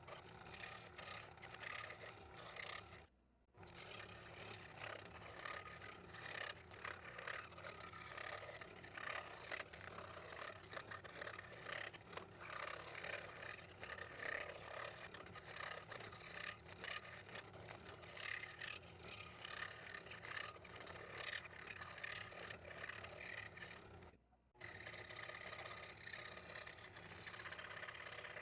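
Scroll saw running and cutting through thin plywood, with a steady rapid buzz of the reciprocating blade. The sound drops out briefly twice, about three seconds in and again about four seconds before the end.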